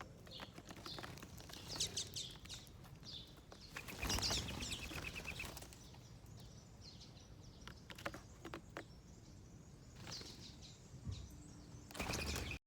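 Small wild birds chirping and calling in short high notes, with a louder burst of rapid trilling about four seconds in and another loud burst just before the sound cuts off.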